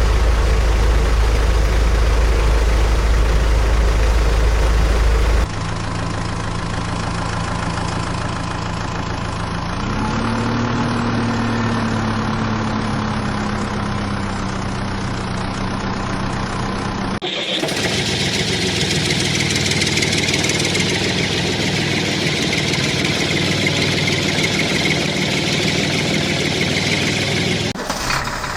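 Construction machinery engines running, across several clips cut together, so the engine sound changes suddenly a few times. About ten seconds in, one engine revs up, then settles back.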